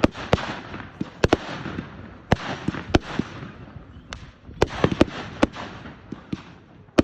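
Fireworks going off: a string of sharp bangs at irregular intervals, several in quick pairs, each followed by a fading crackling hiss.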